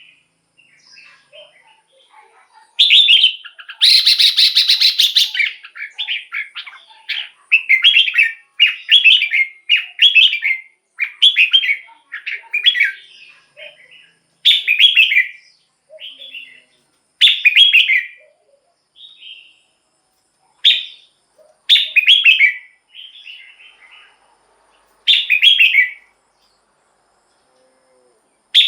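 Red-whiskered bulbul singing: a string of short, loud warbled phrases, each under about a second, with brief pauses between them and one longer burst about four seconds in.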